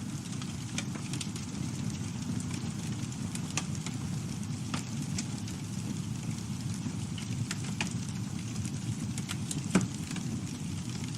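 Campfire burning: a steady low rumble of flame with scattered crackles and pops from the burning wood, and one louder pop near the end.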